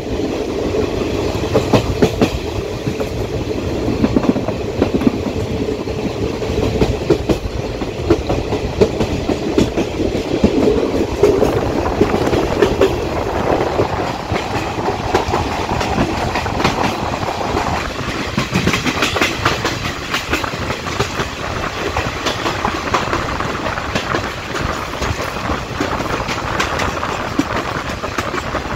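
Passenger train coach running along the track, heard from out the side of the coach: a steady rumble with wheels clattering irregularly over the rail joints.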